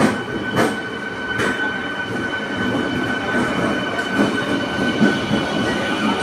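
Passenger train pulling slowly into the platform: a steady high squeal from the running gear, with a few sharp clacks of wheels over rail joints in the first second and a half.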